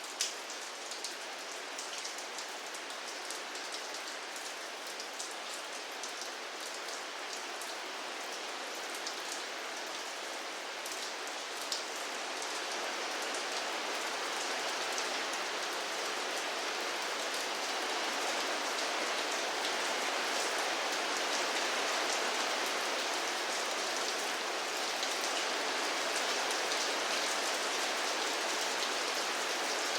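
Steady rain falling on a surface, with sharp ticks of single drops standing out in the first part. About twelve seconds in, the rain grows louder and stays even.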